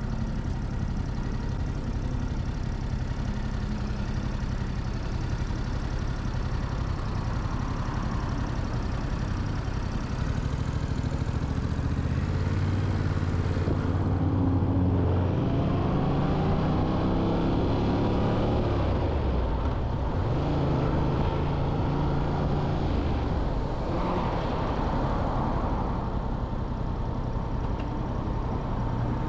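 Motorcycle engine running under way, with wind and road noise; about halfway through the revs climb through the gears, then drop back a few seconds later.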